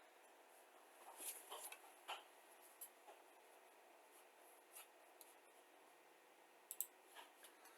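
Near silence, broken by a few faint, short rustles and light clicks of handling, as of paper or kit parts being moved about.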